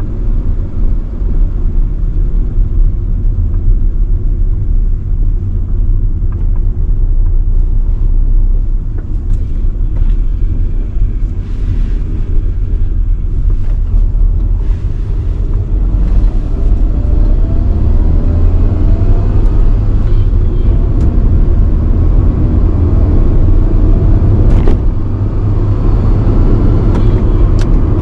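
1985 Nissan Sunny B12 on the move, with steady engine and road rumble. From a little past halfway the engine's pitch climbs as the car accelerates.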